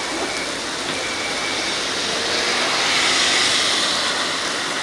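Heavy downpour: a steady hiss of rain, growing louder about halfway through.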